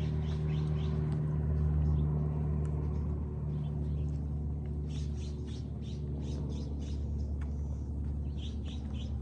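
A small bird chirping in quick runs of short, high notes, over a steady low mechanical hum.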